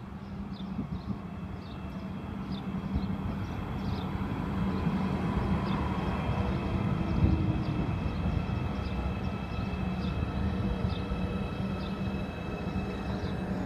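Siemens Desiro electric multiple unit coming into the station and slowing, a steady hum with a faint high electric whine that grows louder over the first several seconds as it draws near.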